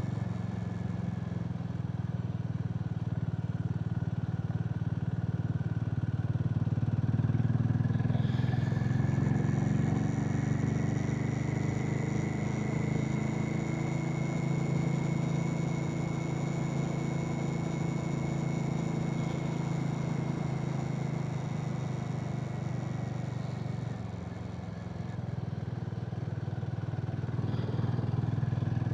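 Harley-Davidson X440's single-cylinder engine running steadily on the move, picking up speed with rising pitch about a third of the way in and easing off briefly near the end.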